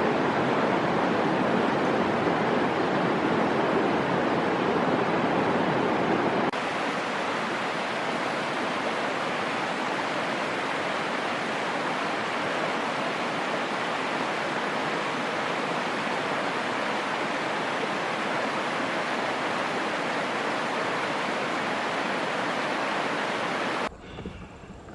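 Steady rushing of a river's flowing water. About six seconds in it turns slightly quieter and thinner, and just before the end it cuts off abruptly to a much quieter background.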